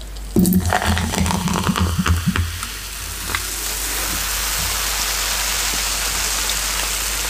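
A few low knocks and handling sounds, then a steady hiss that sets in about three seconds in and holds.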